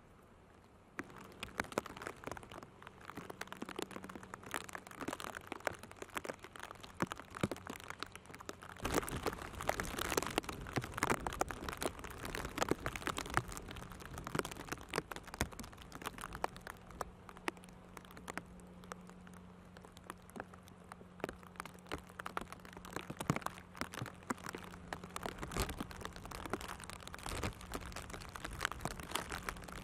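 Rain pattering in dense, irregular close ticks on a nearby surface, growing heavier about nine seconds in, with a faint steady low hum underneath.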